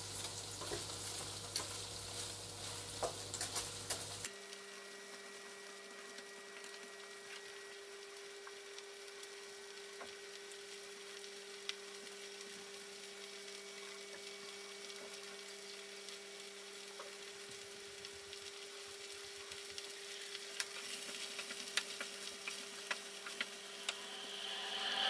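Potato noodles and frozen butter vegetables sizzling in butter in a nonstick frying pan, with a wooden spatula clicking and scraping against the pan during the first few seconds and again near the end. A steady faint hum runs underneath from about four seconds in.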